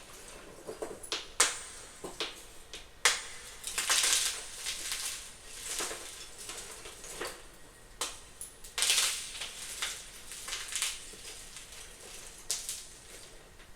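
Crunchy gym chalk chunks being crushed, in irregular bursts: a few sharp cracks, then longer crumbly crunches about 4 and 9 seconds in.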